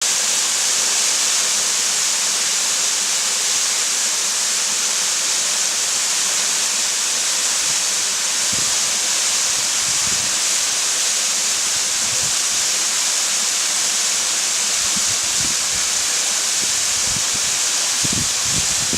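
Waterfall: a steady, loud rush of falling water. From about eight seconds in, irregular low bumps sound under it.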